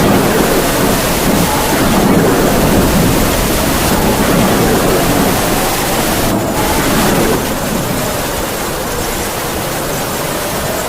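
Heavy rain with howling wind: a steady, dense hiss of downpour under a wind whistle that slowly wavers up and down in pitch.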